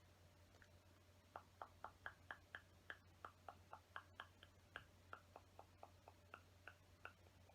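Faint, rapid clicking of small plastic LEGO pieces being sifted through by hand, about four clicks a second, starting about a second and a half in, over a steady low hum.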